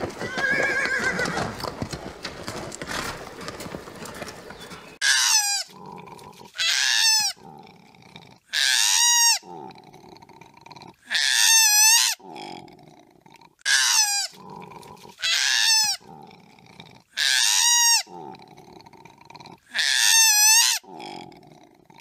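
Grazing horses for the first five seconds, then a koala calling eight times, each call a high, wavering squeal that falls in pitch, repeated about every two seconds, with softer low grunting between the calls.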